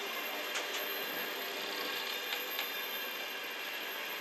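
Container freight wagons rolling past on the rails: a steady rumble and rattle of wheels and loaded flat wagons, with a few sharp clicks.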